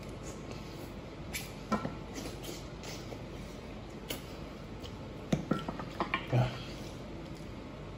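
Close-up eating sounds from gnawing and chewing braised pork trotter: wet smacking and sucking of the mouth on skin and bone, with a few sharp clicks of chopsticks against the metal tray, most of them between about five and six and a half seconds in.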